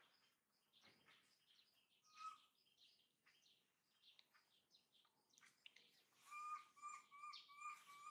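Faint birdsong from the surrounding forest: scattered high chirps, with a clear whistled note heard once about two seconds in and then repeated five times in quick succession near the end.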